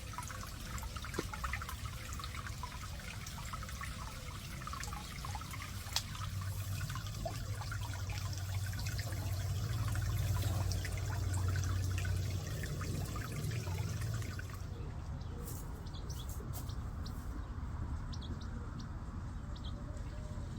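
Water trickling and splashing steadily over a low rumble. About fourteen seconds in, the sound changes abruptly: the hiss drops away, leaving softer water and a few sharp ticks.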